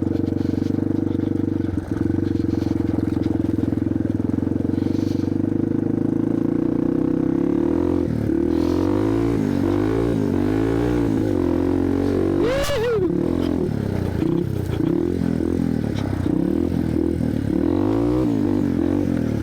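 1987 Yamaha TW200's single-cylinder four-stroke engine running while the bike is ridden. Its pitch holds steady for the first several seconds, then repeatedly rises and falls as the throttle is worked, with one sharp rev about two-thirds of the way through.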